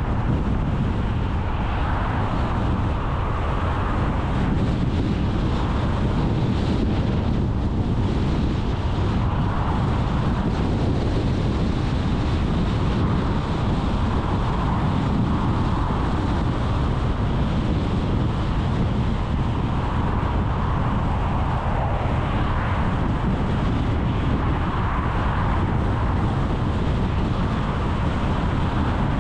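Steady car road and engine noise while driving, with wind gusting over the microphone in swells every few seconds.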